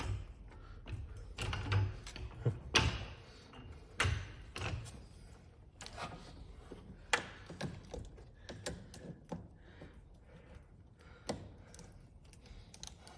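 Irregular clunks, knocks and sharp clicks of hand tools and metal parts being handled while a car's steering shaft is being disconnected from the subframe. The heaviest clunks fall in the first few seconds, with scattered single clicks after.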